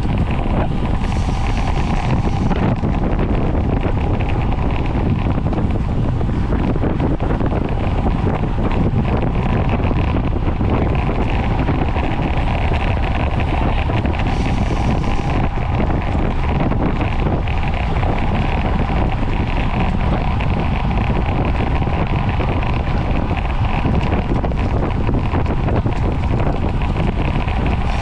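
Steady wind rushing over the microphone of a camera riding along on a racing bicycle at speed. The wind's rumble is the loudest thing, with tyre and road noise beneath it.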